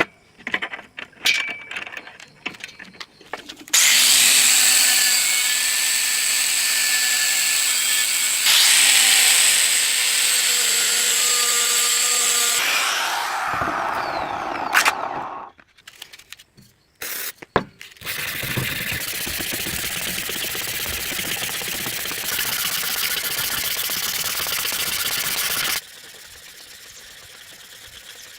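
A power tool running in two long stretches, steady with a high whine, with a few clicks and knocks in the pause between them; it stops near the end.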